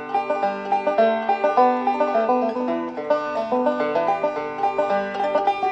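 Background music: a banjo picking a quick run of bright plucked notes in a bluegrass style.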